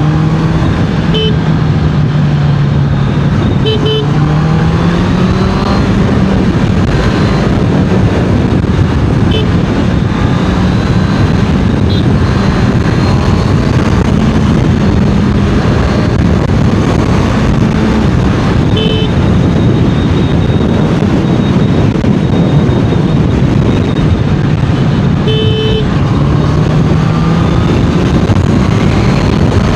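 Honda CBR650R's inline-four engine running at speed, its note rising and falling with the throttle, over heavy wind and road rush. Short horn toots sound about six times.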